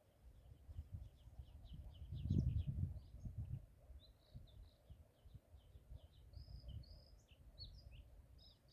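Small birds singing in quick, high chirps and trills, an evening spring chorus. Under them runs a low, uneven rumble, loudest about two to three and a half seconds in.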